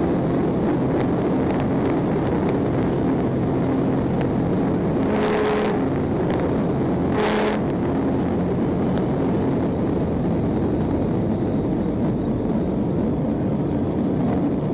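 Patrol car driving hard in pursuit: steady engine and road noise. Two short blasts stand out, about five and seven seconds in.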